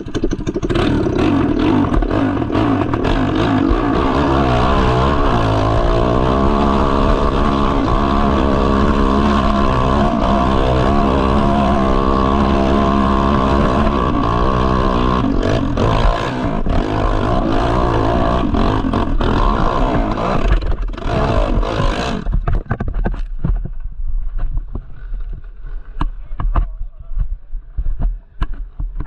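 Hill-climb motorcycle engine revving hard with a constantly changing pitch as it climbs a steep dirt slope. The engine stops abruptly about 22 seconds in, leaving a quieter hiss with scattered knocks.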